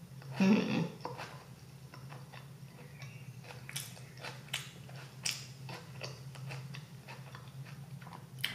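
A person chewing a mouthful of Whopper Jr burger, close to the microphone: soft, wet mouth clicks and smacks keep coming irregularly. A louder mouth sound comes about half a second in, over a steady low hum.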